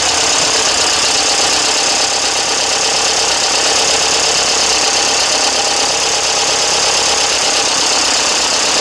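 Pinzgauer 712M's air-cooled engine idling steadily, an even running sound with no change in speed.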